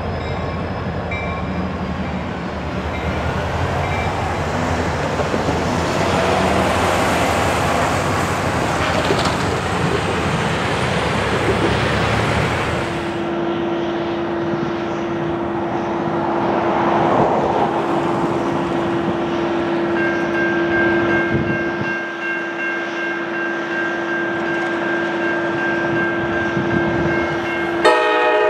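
Rumbling noise of a CSX freight train, then a steady tone after a cut. About two-thirds of the way through, steady ringing tones from the grade-crossing warning join in. Near the end, the CSX diesel locomotive's horn blasts suddenly and loudly.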